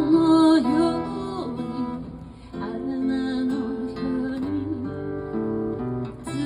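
Song played on acoustic guitar, with sustained chords under a wavering sung melody.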